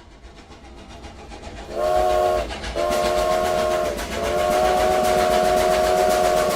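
Train sound effect: a rhythmic chugging clatter that grows louder, then a train whistle sounding three times, two shorter blasts and a longer third.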